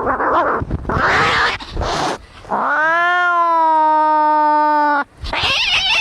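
Angry cats caterwauling: harsh, rasping cries for the first two seconds, then one long drawn-out yowl that rises at its start and holds its pitch for over two seconds before cutting off. Harsh cries start up again near the end.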